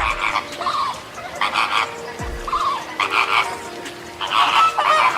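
An animal calling with short, rasping croaks, about five of them spaced through a few seconds.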